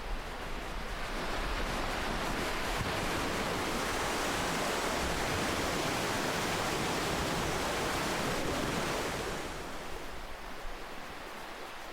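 Ocean waves on a shore: one wave's wash swells up over the first couple of seconds, holds as a steady rush, and eases back about ten seconds in.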